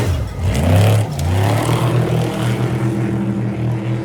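Off-road race truck engine revving hard in a quick surge of rising pitch about half a second in, then settling into a steady drone.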